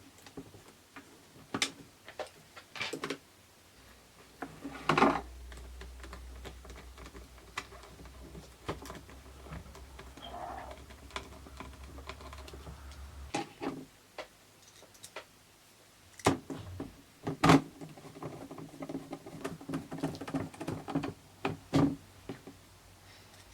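Irregular small clicks and taps of plastic and metal parts being handled and fitted while an instrument cluster is reassembled, with light rustling between them. A low steady hum sounds under the clicks through the first half.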